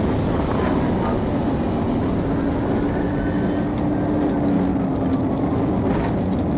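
Patrol car's engine and road noise inside the cabin during a high-speed pursuit: a steady running note over a dense rush of tyre and wind noise, its pitch easing slightly a couple of seconds in.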